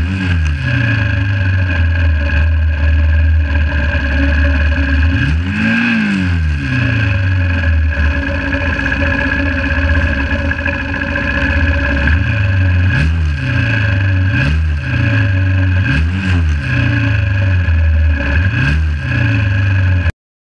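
1968 Honda CB350's air-cooled parallel-twin engine idling, its throttle blipped about six times, each blip a quick rise and fall in revs. The sound cuts off suddenly near the end.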